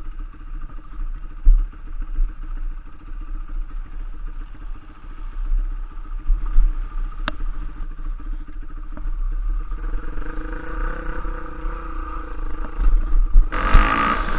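Trail motorcycle engine running with a steady low rumble and a sharp knock about seven seconds in. The engine gets louder about ten seconds in and much louder again near the end.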